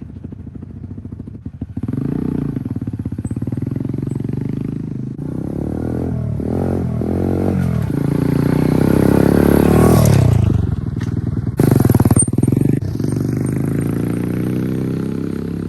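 Small Chinese DB-X29 X-Pro dirt bike engine being ridden, its pitch rising under throttle for several seconds, then dropping sharply about two thirds of the way in. It picks up again briefly and then settles lower near the end.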